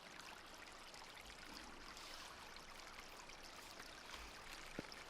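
Faint, steady running water of a small stream, with a single light click near the end.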